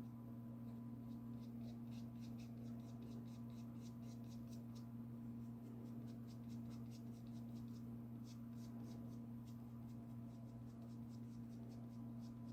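Paintbrush dabbing gouache onto paper in quick, light strokes, about five a second, in several short runs over a steady low hum.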